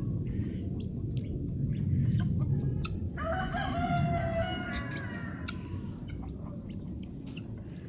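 A rooster crows once, about three seconds in. Under it is the low rumble of a jet flying over, loud and then fading away toward the end.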